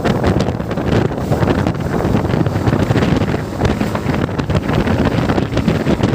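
Wind buffeting the microphone of a moving motorcycle, with the bike's engine and road noise running underneath at a steady level.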